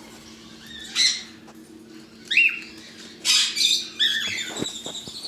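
Caged parrots calling: short chirps and squawks about a second in and at two and a half seconds, a louder harsh screech just past three seconds, then whistled notes near the end, over a steady low hum.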